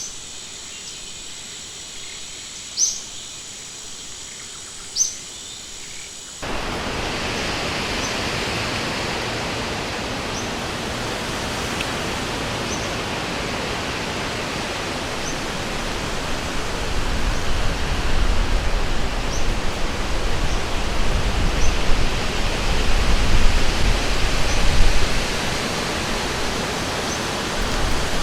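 Insects trilling steadily, with three sharp bird chirps a couple of seconds apart. About six seconds in, this cuts to river water rushing, with faint scattered bird chirps over it. A low rumble swells in the second half.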